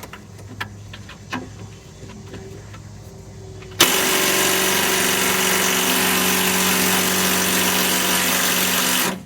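Impact wrench (impact gun) hammering continuously on a seized idler arm bolt for about five seconds, starting about four seconds in and cutting off abruptly; the bolt is too tight to break loose. Before it, a few faint clicks over a low steady hum.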